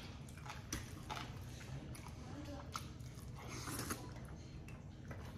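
Faint chewing and mouth sounds of a man eating spaghetti, with a few light clicks of a fork against the plate.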